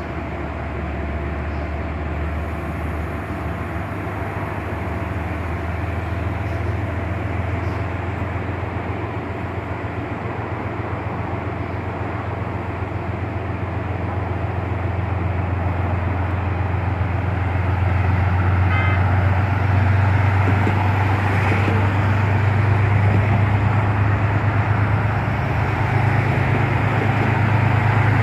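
Metro-North Shoreliner commuter train rolling over a steel girder bridge: a steady low drone with rumbling noise that grows louder toward the end, with road traffic passing beneath.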